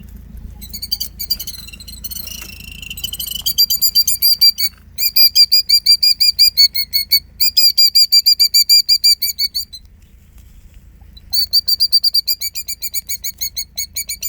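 Killdeer giving its alarm call: long runs of rapid, shrill, repeated notes, about eight to ten a second, with short breaks and one longer pause before the last run. It is the call of a parent bird upset by a person close to her nest of eggs.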